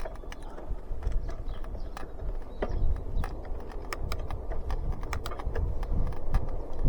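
Bicycle being ridden, giving irregular sharp clicks and ticks, several a second, over a steady low rumble.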